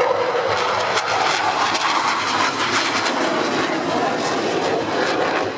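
Dassault Rafale C's twin M88 jet engines in a loud, close display pass, a steady roar with crackle running through it.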